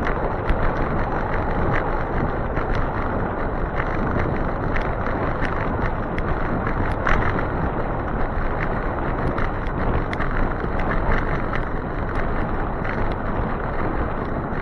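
Steady rushing noise of riding an e-bike in the rain, with wind on the microphone and scattered light ticks.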